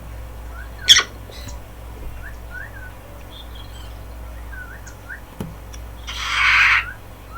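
Nature ambience with small birds giving short, repeated chirps over a steady low hum. There is a sharp crack about a second in, and a louder, harsh, noisy call-like burst lasting under a second near the end.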